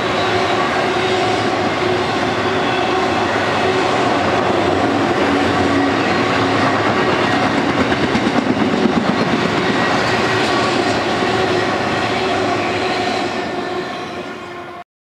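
Empty intermodal flatcars of a BNSF freight train rolling past, wheels clacking over the rail joints with a steady squeal from the wheels on the curve. The sound fades and then cuts off abruptly near the end.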